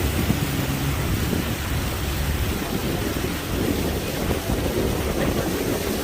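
Boat under way: its motor running steadily under the rush of water past the hull and wind buffeting the microphone.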